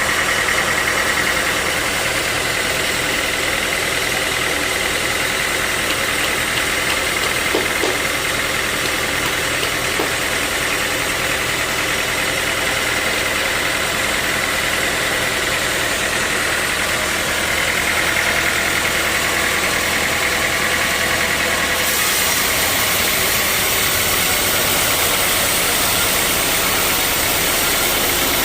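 Sawmill saw and its motor running steadily, with a high, even whine. The sound turns brighter and hissier about 22 seconds in.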